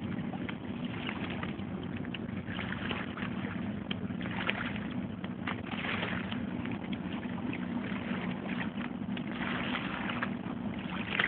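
A boat engine out on the water gives a steady low drone, over a rushing hiss of wind and water.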